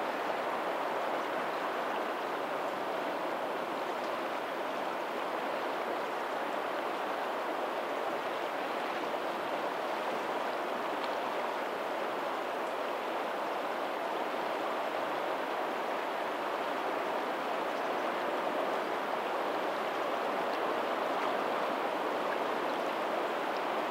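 Steady flow of water from a lagoon's tidal outflow running over a pebbly shore toward the sea, with faint ocean surf in the distance.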